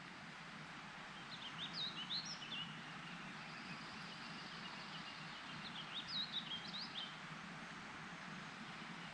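A songbird sings two phrases of quick, high, jumping notes, each about a second and a half long and a few seconds apart, over a steady outdoor hiss.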